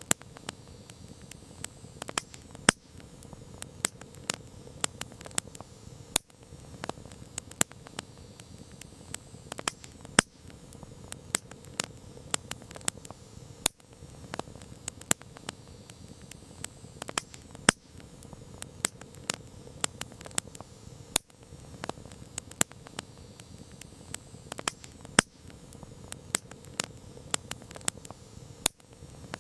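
Wood campfire crackling: sharp, irregular pops and snaps, several a second and some much louder than the rest, over a steady low hiss of the burning fire.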